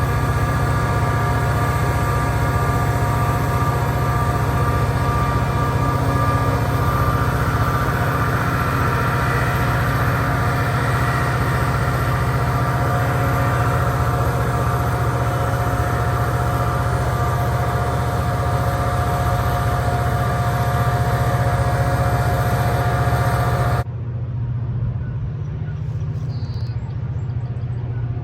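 EMD SD40-2 diesel locomotive's turbocharged 16-cylinder engine running hard under heavy load, trying to move a stalled train: a deep steady drone with a high whine over it. Near the end the sound drops suddenly to a quieter, duller drone.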